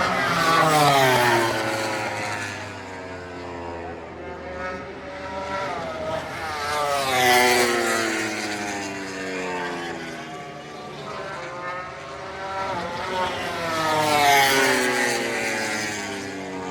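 MotoGP racing motorcycles passing one after another at speed, three loud passes about six seconds apart. Each engine note swells and then falls in pitch as the bike goes by.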